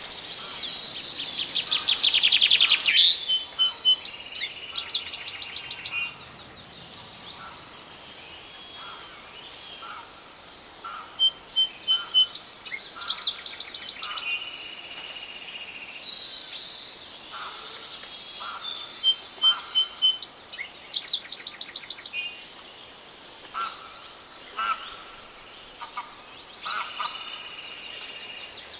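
Several songbirds singing in a forest, with overlapping songs, rapid trills and short chirps; a dense chorus in the first few seconds, then separate phrases from different birds.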